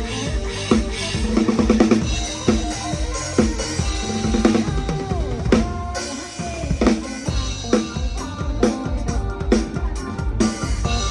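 PDP drum kit played live with a band: bass drum and snare keep a driving beat with quick fills, over the band's other instruments, picked up by a phone's microphone.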